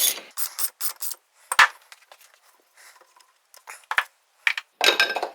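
Metal engine parts and tools clinking, knocking and scraping on a workbench during a small-engine teardown, as the loosened flywheel and its nut are taken off. One sharper knock about a second and a half in, and a short clattering run near the end.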